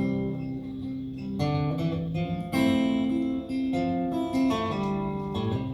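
Acoustic guitar playing an introduction, a chord strummed about once a second and left to ring.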